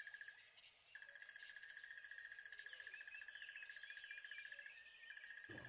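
Faint birdsong: small chirps over a steady, rapidly pulsing high trill, which drops out briefly about half a second in.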